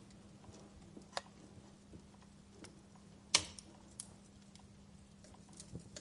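Wood fire crackling in a fireplace: scattered small snaps and one louder pop about three seconds in, over a faint steady hum.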